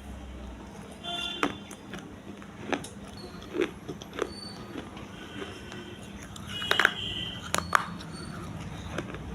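Brittle pieces of baked clay crunching and cracking in a series of sharp, separate snaps, about seven over several seconds, with a steady low hum underneath.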